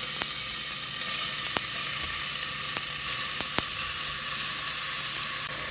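Food sizzling steadily in a hot frying pan, with a few sharp pops or utensil ticks scattered through it.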